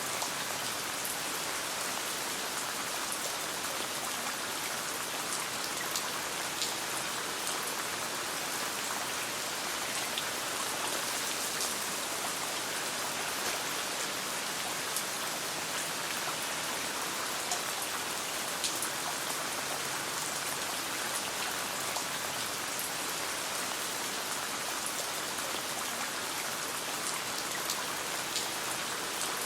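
Steady rain, with scattered small crackles and pops of a campfire.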